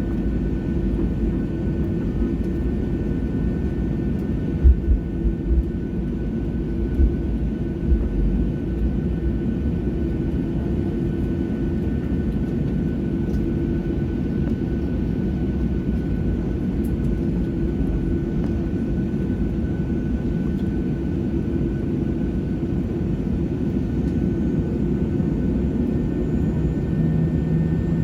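Jet airliner cabin noise before takeoff: the engines run at low power with a steady hum and whine. A few short low thumps come about 5 and 8 seconds in.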